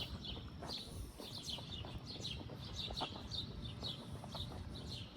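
Small birds chirping: many short, high chirps one after another, over a steady low rumble.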